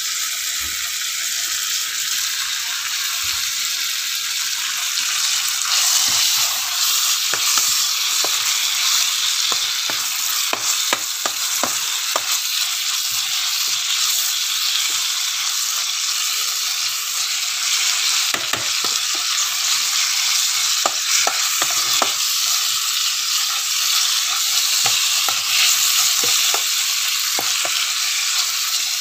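Oil sizzling steadily as shredded daun kepayang leaves and sliced aromatics fry in a stainless-steel electric pot. From about six seconds in, a spatula clicks and scrapes against the pot as the mix is stirred.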